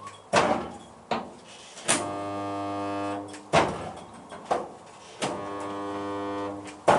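DIY spot welder buzzing through two welds of about a second and a half each as it joins steel panels, with sharp clicks from the welding tongs clamping and releasing between the welds.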